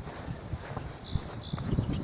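A small songbird singing: three high whistled notes, each sliding downward, followed near the end by a quick run of short high notes. Under it, irregular soft steps on the woodland trail.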